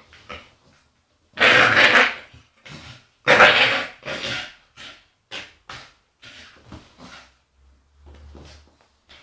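Staffordshire bull terrier making agitated, growly vocal noises. Two loud drawn-out calls about two seconds apart are followed by a string of short, quieter ones.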